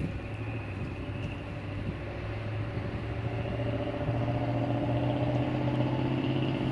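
A motor vehicle's engine running steadily, a low hum that grows louder about four seconds in.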